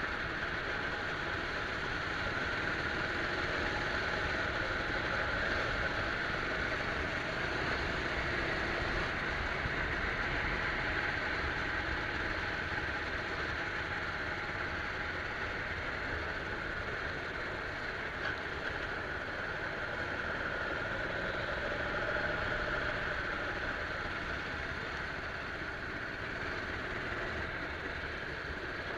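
Rental go-kart engine running under way, its note rising and falling gently with the throttle.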